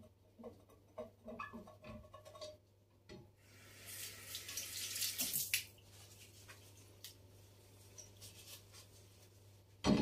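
Kitchen containers handled during pantry organising: soft clinks and taps, then about two seconds of rushing hiss, and a louder knock with a short ringing tone at the very end.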